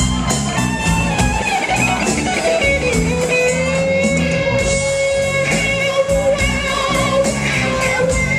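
Live slow blues from an electric guitar, bass and drum trio: the lead guitar slides down about two and a half seconds in and holds one long sustained note for several seconds over a steady bass and drum groove.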